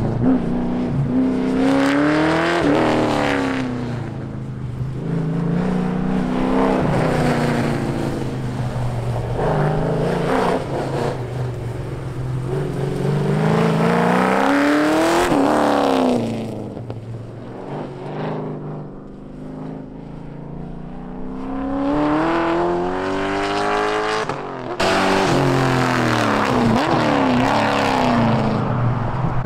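Car engine revving hard and easing off again and again as the car is driven at speed around a coned course, its pitch climbing and falling with each burst. It grows fainter for a few seconds past the middle, then loud again.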